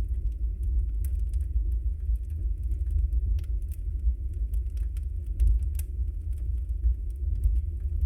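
Wood fire burning in a fireplace: a steady low rumble of flames with frequent small crackles and pops at irregular moments.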